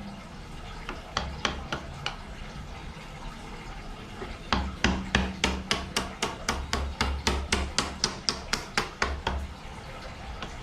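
A hand tool working a wooden trunk. A few scattered knocks come first, then from about four and a half seconds in a quick, regular run of sharp strikes, about three a second, with scraping between them.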